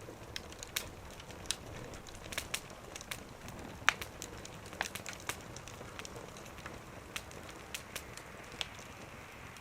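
Wood fire crackling in a small wood stove: sharp, irregular pops over a low steady hiss, the loudest about four seconds in.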